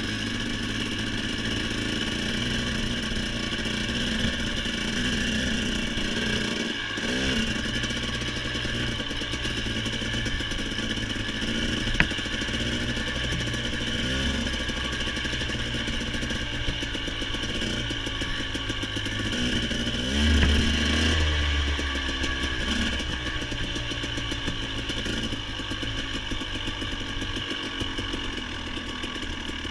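Motorcycle engine running steadily under way on a dirt road, its pitch rising and falling a few times with the throttle, with the loudest swell about 20 seconds in. A single sharp click about 12 seconds in.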